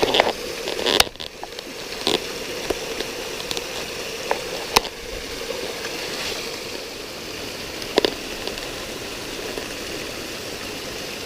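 Spring-fed waterfall running steadily, with a few sharp clicks and knocks over the sound of the falling water.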